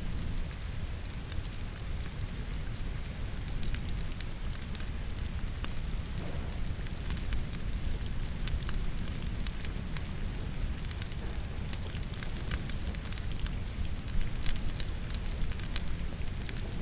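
Wood logs burning in a fireplace, crackling with frequent sharp pops, over a steady low rumble and the hiss of rain.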